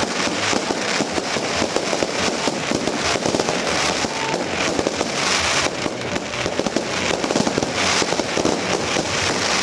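Dense, continuous crackling and popping, with a few louder hissing swells.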